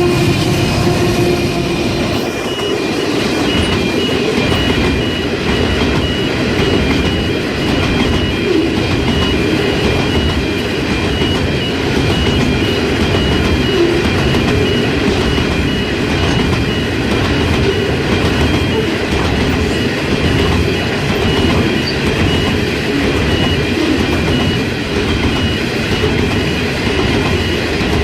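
A freight train rolling past at speed, its wagon wheels clattering over the rails in a continuous loud rumble. A steady engine tone from the passing locomotive fades out in the first couple of seconds.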